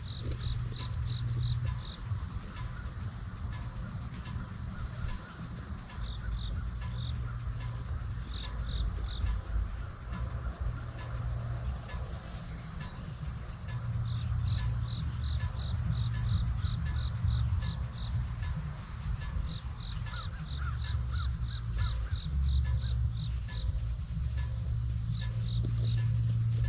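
Insects chirping in rapid pulsing runs over a steady high-pitched drone, with a low rumble underneath.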